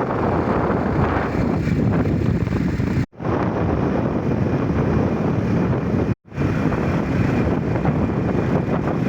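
Wind rushing over the microphone during a ride, a loud, steady rush of noise that cuts out abruptly and fades back in twice, about three and six seconds in.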